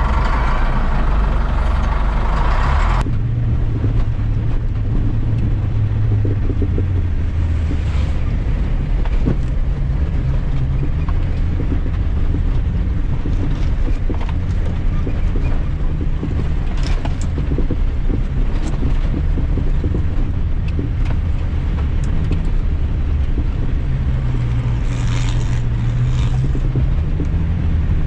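A motor vehicle's engine running with a steady low rumble; about three seconds in, a hissing upper layer of noise cuts off abruptly while the rumble carries on.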